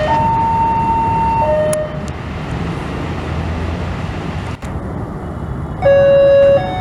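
A train horn sounds in two alternating notes over the low rumble of a passing train, stopping about two seconds in while the rumble goes on. Near the end, a louder horn blast of two notes sounded together begins.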